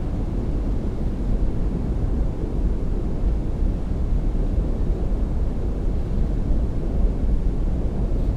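Steady low rumble of a boat under way, with wind on the microphone.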